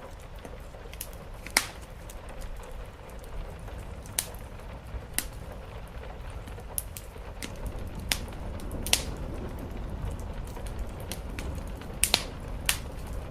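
Wood fire crackling and popping, with scattered sharp snaps, a few louder ones about a second and a half in and near the end, over a steady low rumble of flames and rain.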